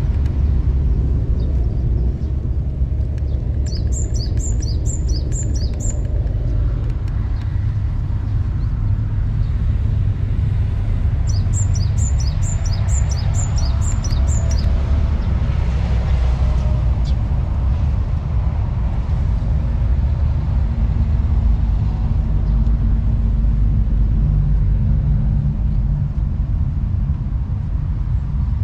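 A bird calling in two runs of evenly repeated high chirps, about two to three a second, over a steady low rumble that is the loudest sound throughout.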